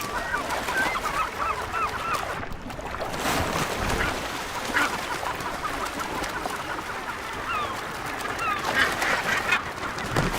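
A northern gannet colony: many birds giving short, harsh calls over one another, over a steady wash of background noise.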